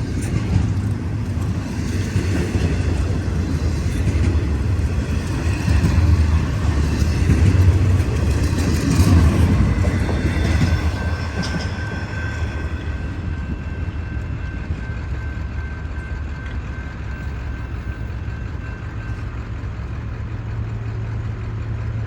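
Freight cars of an intermodal train rolling past with a low rumble and wheel clatter that die away a little past halfway as the end of the train goes by. A thin steady whine follows for several seconds, and a steady low diesel hum carries on underneath.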